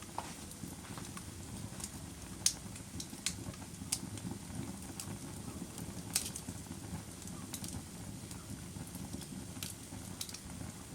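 Campfire burning with a steady low rumble and irregular sharp crackles and pops from the burning wood, the loudest about two and a half seconds in.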